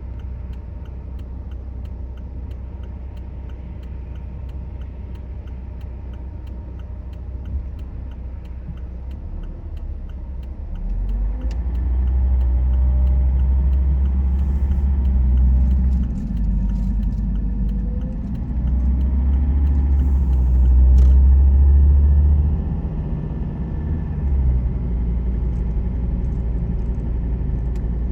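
Car driving, with a steady low rumble of engine and road noise that grows louder about ten seconds in and eases back near the end.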